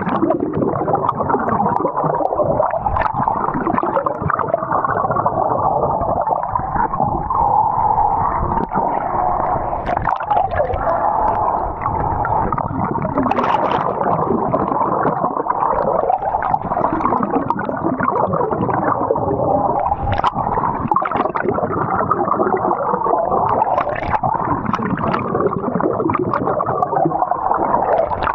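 Water gurgling and sloshing continuously, sounding muffled and dull, with a few brief sharper splashes.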